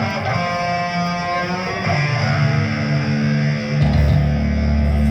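Live band playing, led by electric guitar; a deep bass line comes in strongly near the end.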